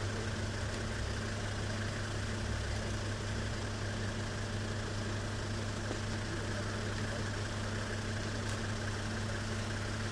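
Steady mechanical drone of an engine or machine running at constant speed: a low hum over even noise, with no change in pitch.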